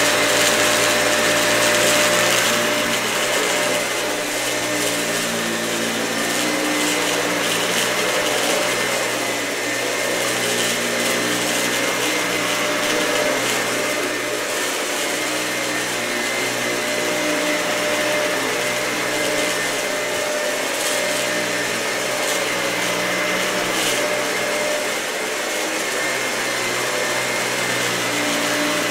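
Dyson vacuum cleaner running steadily on carpet, a constant motor whine over the rushing hiss of air.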